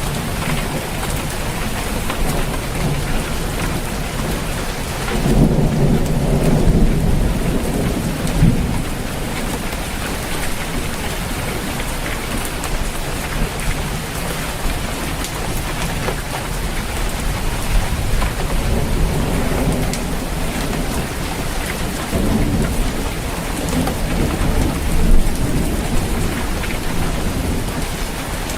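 Steady heavy rain drumming on a roof, with rolling thunder rumbling low beneath it, swelling about five seconds in and again past the twenty-second mark.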